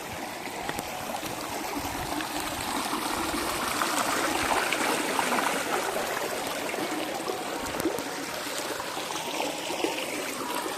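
A stream of water flowing steadily, growing a little louder a few seconds in and easing off again later.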